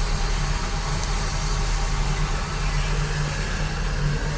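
A standing steam locomotive giving off a steady low hum with an even hiss over it.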